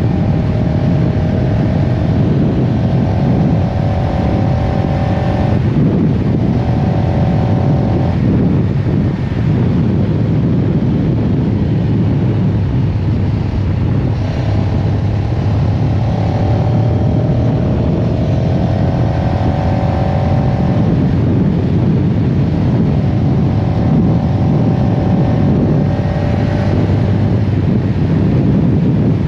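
CFMoto CLX-700 Heritage's parallel-twin engine running under way, its pitch slowly rising and then dropping back several times as the motorcycle is ridden.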